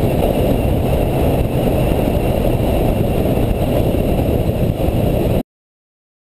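Motorcycle on the move: dense engine and wind rumble buffeting the microphone, steady until it cuts off abruptly to silence about five seconds in.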